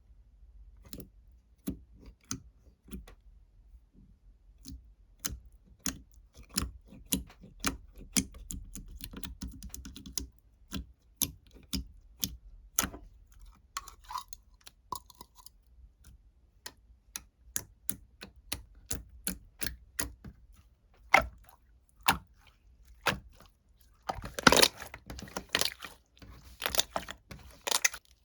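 Crunchy food being chewed close to the microphone: a long string of sharp, irregular crunching clicks, with a denser run of crunches near the end.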